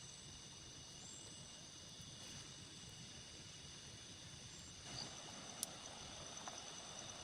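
Faint insect chorus: several steady, high, thin trills held without a break over a low hiss of background noise, with a single sharp click about five and a half seconds in.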